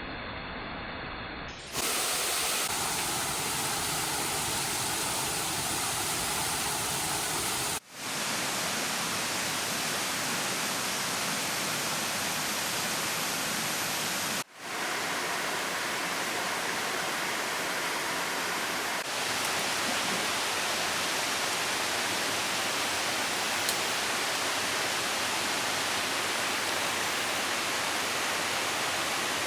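Waterfall rushing: a steady, loud roar of falling water. It steps up in loudness about two seconds in and drops out sharply for a moment twice.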